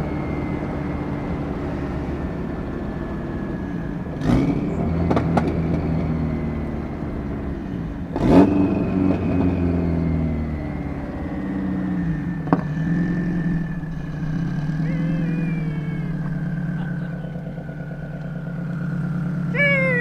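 Built, turbocharged Subaru WRX STI EJ257 flat-four heard from inside the cab through its hood-exit exhaust, pulling along on the road with the engine note rising and falling as the driver accelerates and eases off, over a faint high whine slowly dropping in pitch. A few sharp cracks come about 4, 5, 8 and 12 seconds in.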